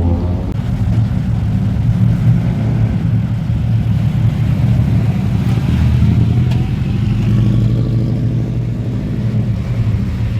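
Historic rally car's engine running under load, a loud, steady low drone that holds nearly the same pitch throughout.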